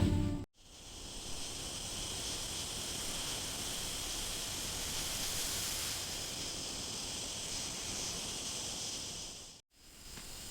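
Steady outdoor background hiss with a faint high, even drone in it. It starts after a brief drop-out about half a second in and stops abruptly near the end.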